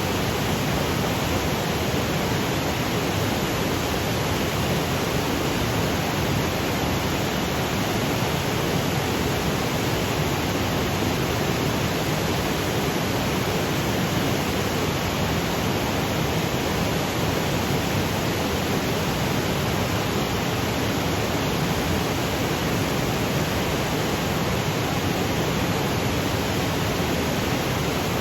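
Waterfall cascading over granite boulders: a steady, even rush of falling water with no change or break.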